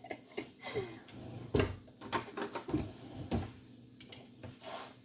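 Irregular crinkling, rustling and small clicks of a wrapper being handled and torn open, as a beef bouillon cube is unwrapped for the soup.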